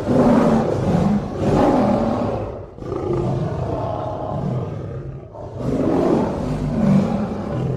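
Lion roaring: about three long, rough, drawn-out roars one after another.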